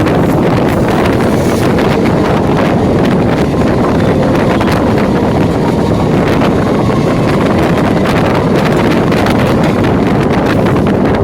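Electric multiple-unit (EMU) local train running, a loud steady rumble with heavy wind buffeting on the microphone.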